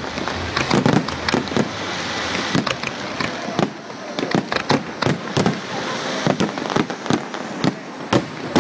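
Fireworks going off: dozens of sharp bangs and cracks in quick, irregular succession over a steady crackling hiss.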